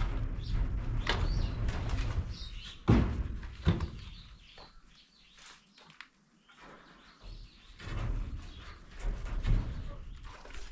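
A few sharp knocks, the loudest about three seconds in, over a low rumble, with birds chirping.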